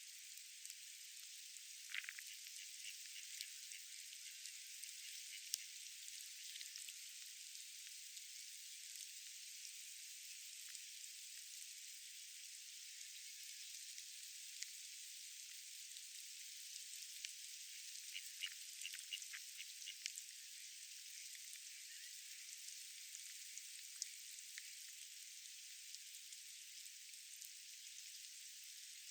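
Faint, steady outdoor hiss of park ambience, with a few short bird calls about two seconds in and a cluster of them around eighteen to twenty seconds.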